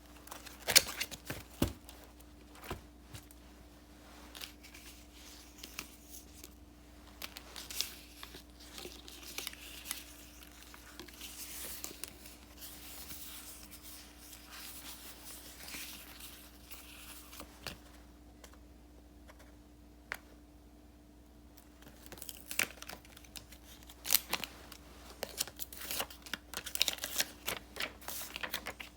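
Paper stickers peeled off their backing and paper sheets rustling, with scattered light taps and clicks, busiest near the start and over the last several seconds. A faint steady hum sits underneath.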